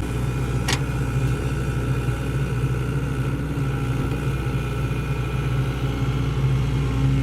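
Sany SY75C excavator's diesel engine running at a steady, even pitch, with a short click under a second in.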